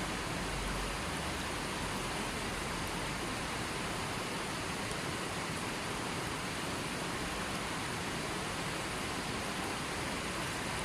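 Steady, even rushing of water, a constant hiss with no breaks.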